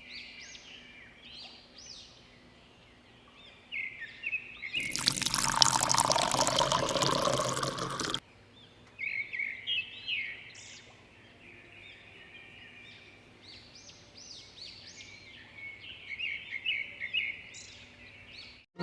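Small birds chirping over and over. From about five to eight seconds in, a loud rushing sound like liquid being poured covers the chirps, then cuts off suddenly.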